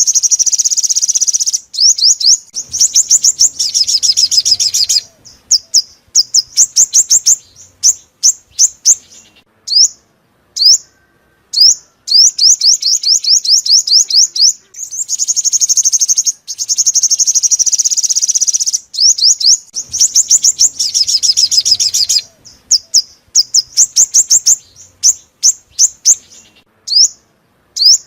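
Sunbird song, sold as the five-coloured sunbird's call: fast, high-pitched trills and rapid chip notes in quick runs, separated by short pauses. The phrase sequence repeats, as a looped lure recording does.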